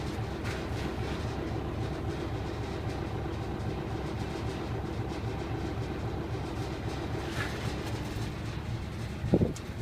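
Nissan Diesel Big Thumb truck's V8 diesel engine idling steadily with an even, low rhythmic rumble. Near the end comes a short, loud tone that rises and falls in pitch.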